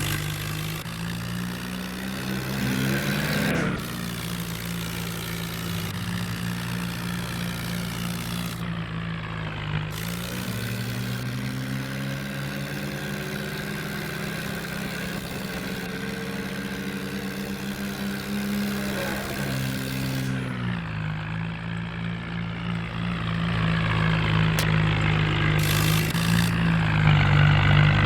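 Tractor engine running steadily, its pitch rising and falling a few times as the revs change, and growing louder near the end.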